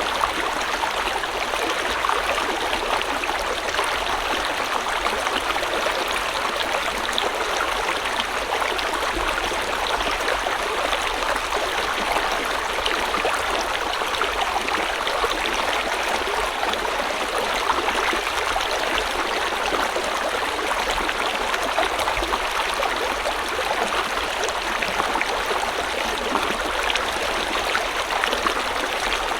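River water flowing steadily over rocks, a continuous rushing babble with small splashes and gurgles through it.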